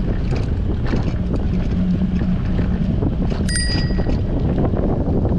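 Strong wind rushing over the microphone while cycling, with a bicycle bell ringing once, briefly, about three and a half seconds in.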